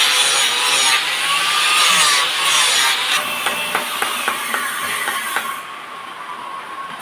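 A tool cutting mahogany wood, a coarse rasping noise that thins out about three seconds in, followed by scattered light clicks.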